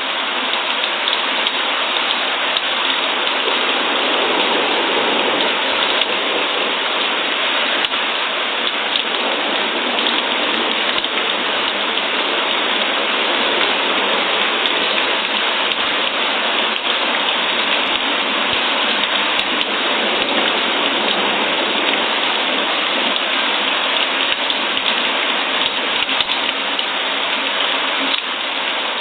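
Steady rain falling, an even, dense hiss of drops with faint scattered ticks of individual drops.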